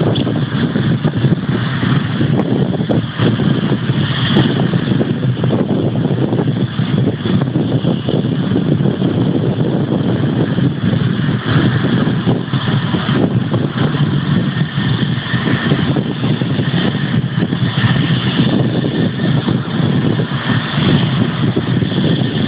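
Jet airliner engines running with a steady, loud rumble and hiss.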